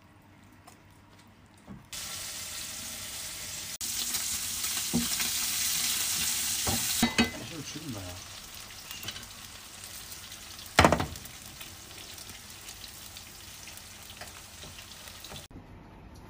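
A batter pancake sizzling as it fries in oil in a frying pan. The sizzle starts about two seconds in, is loudest for a few seconds, then settles to a steadier hiss, with one sharp knock a little before the end.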